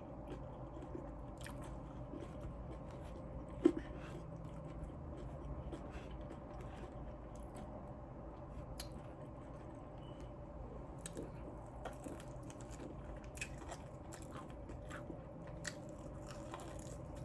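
Close-up chewing and biting of crispy fried chicken wings: a steady run of small crisp crunches, with one louder crunch about four seconds in.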